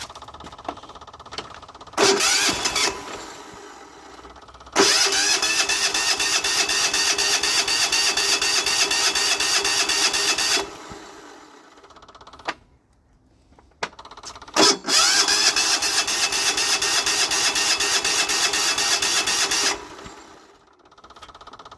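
Turbo diesel engine in a Cub Cadet HDS lawn tractor being cranked by its electric starter without catching. There is a short blip, then two runs of steady, rhythmic cranking of about five to six seconds each, each starting with a rising whine and separated by a pause. The engine fails to fire, which the owner puts down to air in the fuel lines.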